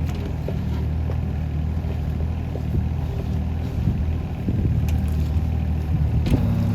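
Hitachi ZX18 mini excavator's diesel engine running steadily while digging, growing louder about two-thirds of the way through, with a couple of short knocks.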